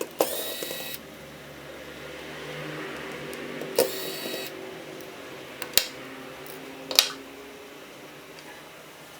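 Small hand tools working on a Samsung Galaxy A13 smartphone during disassembly: two short scraping sounds, then two sharp clicks near the middle.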